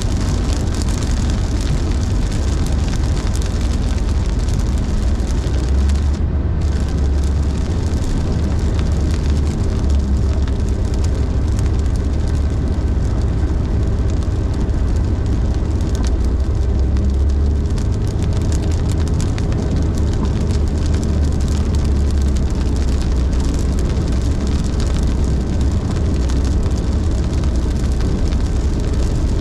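Car driving on a wet highway in heavy rain: a steady low rumble with a constant hiss of tyres and rain. The hiss briefly drops away about six seconds in.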